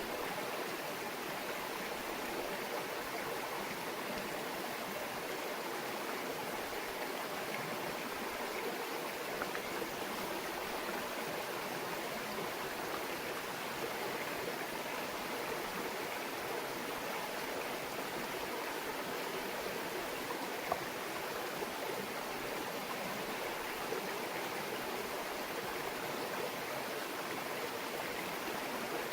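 A small brook babbling steadily, with an even rush of running water and a few faint splashes.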